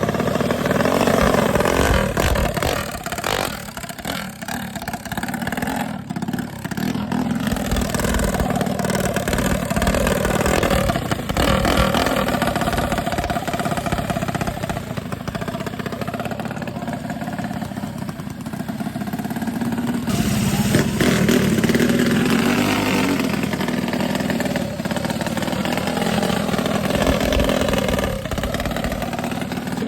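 Mini bike and small motorcycle engines running at high revs, their pitch rising and falling as they rev and accelerate.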